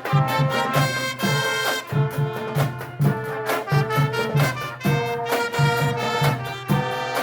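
Marching band playing: brass horns holding a tune over a steady drum beat of about two strokes a second.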